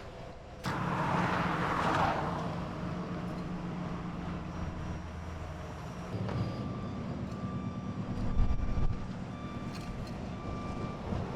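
Heavy vehicle engines running steadily, with a backup alarm beeping in a regular rhythm from about six seconds in.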